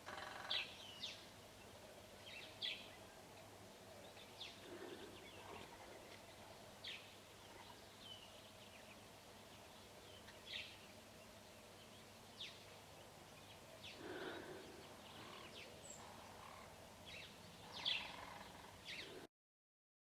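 Quiet outdoor background with scattered brief, high-pitched bird chirps, about a dozen, coming at irregular intervals.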